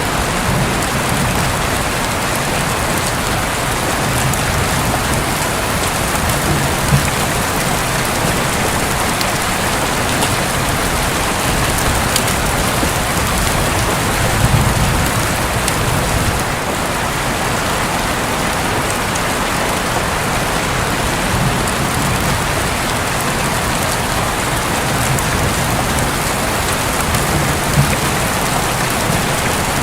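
Rain falling steadily on a roof.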